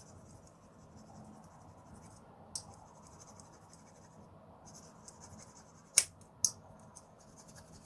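Fine 10,000-grit tempered glass file rubbed over a plastic model part: a faint, high, scratchy rubbing with short pauses. A small tick about two and a half seconds in, and two louder sharp ticks close together about six seconds in.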